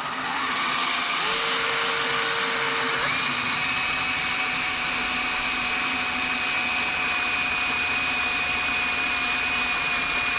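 Electric drill running steadily while drilling a 3 mm hole through the centre of an oil drain plug. Its whine changes pitch about three seconds in and then holds steady.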